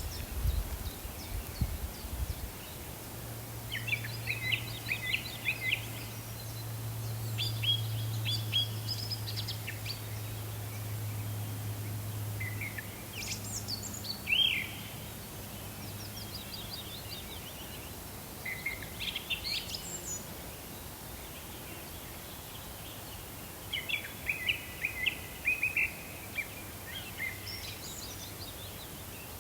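Birds singing in short chirping phrases, four bouts spaced a few seconds apart, over a steady low hum.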